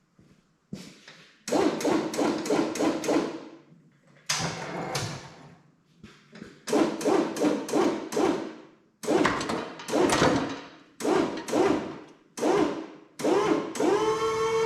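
Forklift lifting a load in a series of short bursts, each starting sharply and fading, with a steady pitched mechanical whine; near the end the pitch rises.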